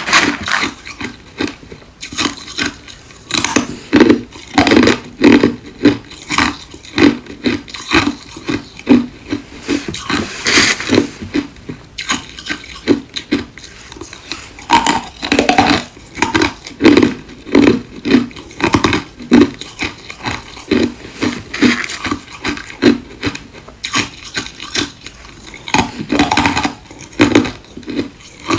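Ice being chewed: a steady run of crunches, two or three a second, with a few louder, longer crunches between them.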